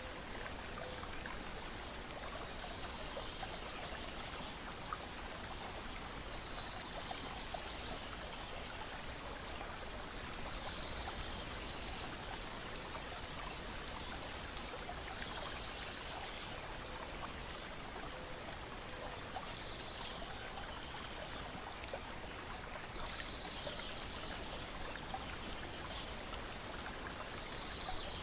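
Lake water lapping and splashing steadily against a shore and deck, with small scattered crackles of a wood fire and short bird chirps every few seconds.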